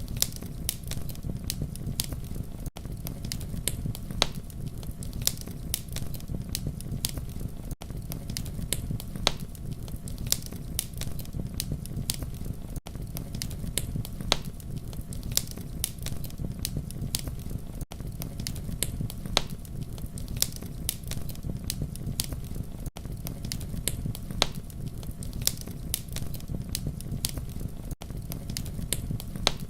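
Campfire burning, with a steady low rumble of flame under sharp wood crackles and pops several times a second. The sound drops out briefly about every five seconds.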